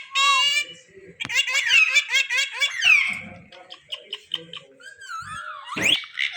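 Indian ringneck parrot chattering and calling in quick runs of short high notes that rise and fall, loudest in the first three seconds, with more calls near the end.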